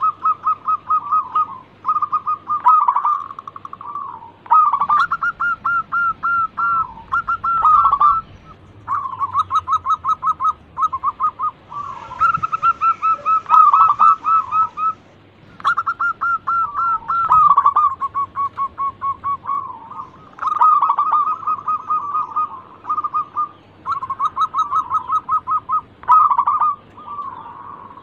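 Zebra doves (perkutut) cooing: rapid series of staccato coos in phrases a few seconds long, separated by short pauses, with fainter higher-pitched notes over them.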